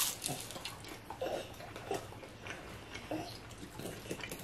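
Close-miked eating of a fried pork egg roll (lumpia): a crisp crunch as it is bitten at the start, then chewing with small crackles.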